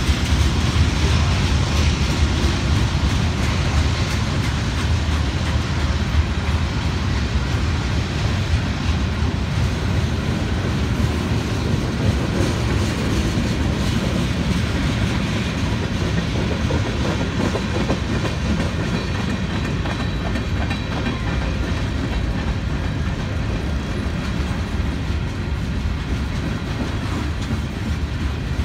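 Freight train of covered hopper and tank cars rolling steadily past a grade crossing: a continuous low rumble and clatter of steel wheels on the rails.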